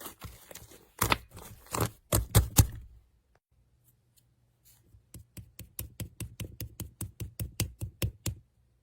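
Slime being squished and pressed, giving irregular sharp popping clicks. After a short pause a quick, even run of crisp clicks follows, about six a second, for some three seconds.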